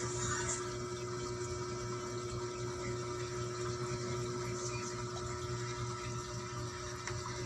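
Aquarium pump humming steadily with a constant low drone.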